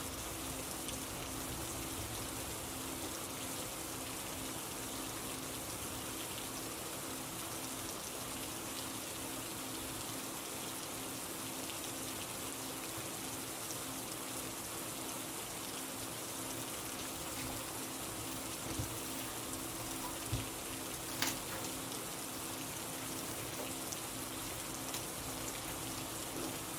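Steady rain falling, an even patter without a break, over a faint low hum. A few soft knocks come about two-thirds of the way through.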